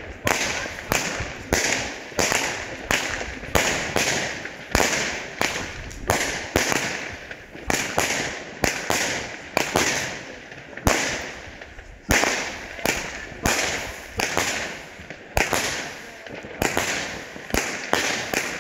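Consumer fireworks cake (battery) firing shot after shot, a sharp bang about every half second. Each bang is followed by a short fading crackle as the stars burst.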